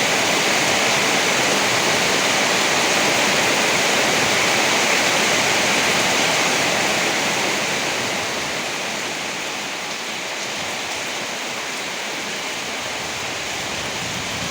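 Heavy rain falling, a steady dense rushing hiss that eases a little about eight seconds in.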